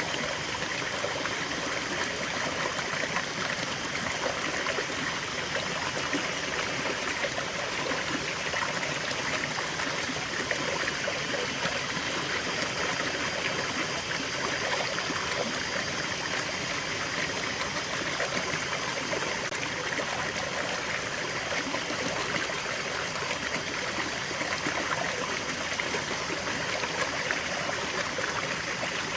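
Small stream running and trickling over stones, a steady, even rush of water.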